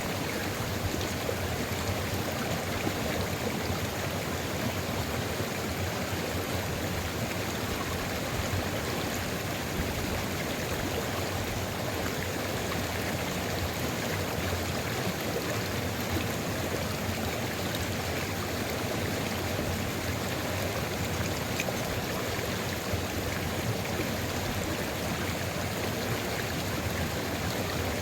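A sulfur river's water flowing steadily, an even rushing of running water that does not change.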